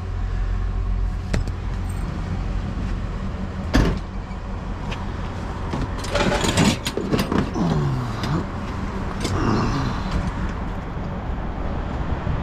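Vehicle engine running steadily, with scattered knocks and metal clatter and one sharp bang about four seconds in.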